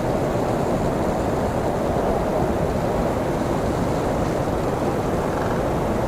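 Strong blizzard wind blowing steadily, a dense even rush of noise that is fullest in the low-middle range and never lets up.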